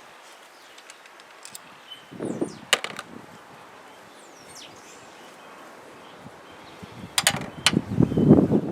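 Sharp metallic clicks and knocks of hand tools and small engine parts being handled during an engine teardown: one about two and a half seconds in, and a quick cluster near the end with handling rumble. Small birds chirp faintly in the background.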